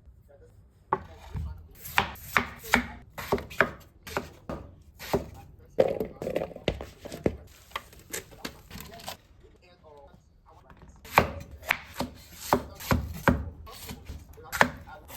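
Knife chopping on a cutting board: a run of irregular, sharp strokes, a pause of about two seconds past the middle, then more chopping.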